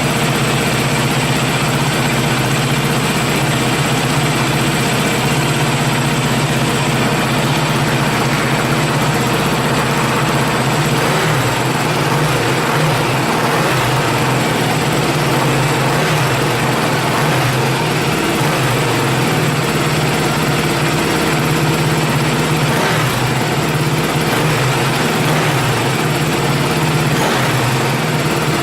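Honda CRF250's single-cylinder four-stroke engine idling steadily, its exhaust note holding an even pitch throughout.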